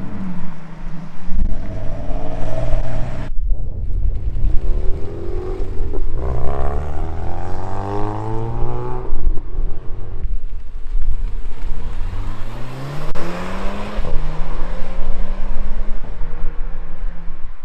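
Car engines revving and accelerating away one after another, the engine note rising in pitch through repeated climbs, with steadier engine running and a heavy low rumble in between. The sound breaks off abruptly about three seconds in, then picks up again.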